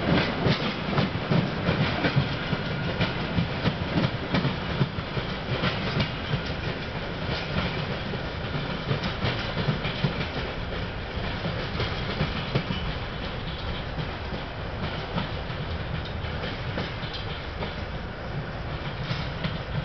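Clickety-clack of a passenger train's coach wheels over rail joints as the train pulls away, with a steady rumble underneath, slowly fading.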